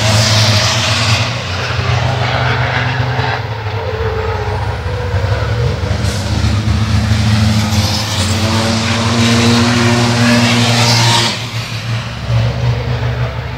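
Racing trucks' diesel engines running on the circuit, their pitch rising and falling, with several short bursts of hiss. The sound drops in loudness about eleven seconds in.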